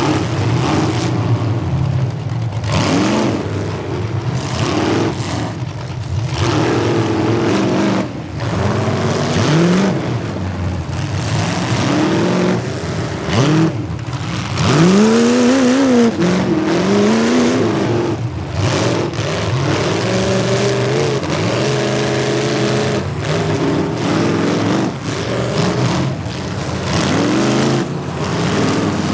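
Demolition derby cars' engines revving hard, their pitch climbing and falling again and again, with sharp knocks from hits throughout.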